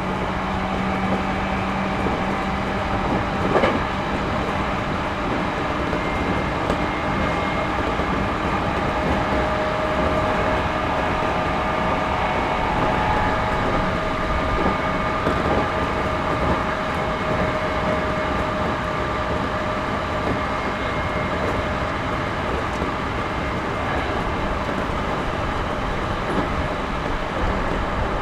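Running noise inside a JR Series 211-5000 electric train car: a steady rumble of wheels on the rails, with a faint whine of held tones over it. There is a single sharp knock about three and a half seconds in.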